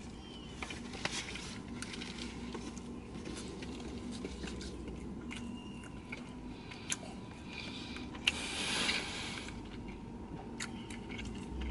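A person biting into and chewing a biscuit sandwich close to the microphone: soft wet chewing with scattered small clicks, and one short louder burst of noise about eight seconds in.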